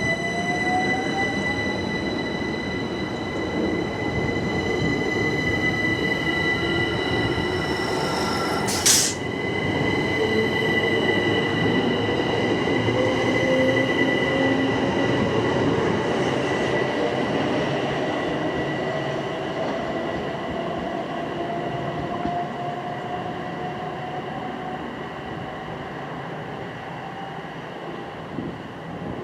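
Southern Class 377 electric multiple unit accelerating, its traction motors giving a whine that slowly rises in pitch, over a steady high tone. There is a single sharp click about nine seconds in, and the train grows gradually quieter in the second half as it pulls away.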